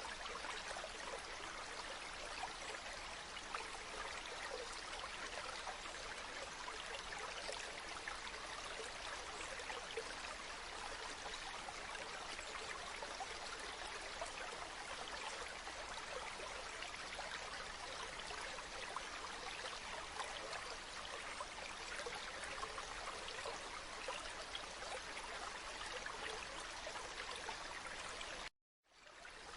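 River water flowing over rocks: a steady rushing, babbling stream. It cuts out completely for a moment near the end and fades back in.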